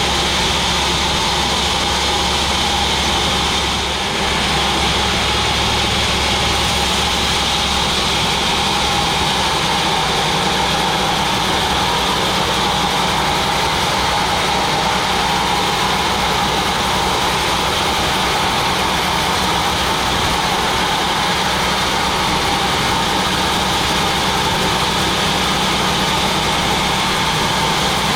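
Sawmill machinery running steadily: an unbroken, loud mechanical drone with a steady whine, with no starts or stops.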